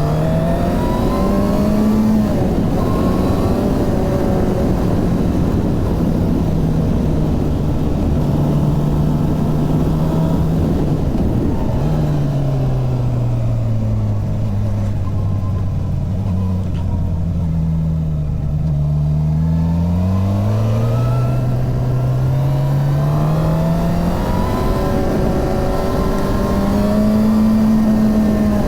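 Suzuki GSX-R 750's inline-four engine running, its note holding steady, then falling to a lower pitch around the middle and climbing again near the end as the revs change.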